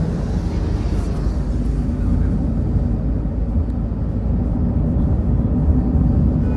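Steady low rumble of heavy road traffic, with engine and tyre noise and no distinct separate events.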